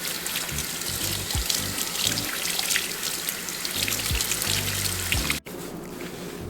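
Water running from a sink tap, a dense crackling spray that cuts off suddenly about five and a half seconds in, over background music with a low bass line.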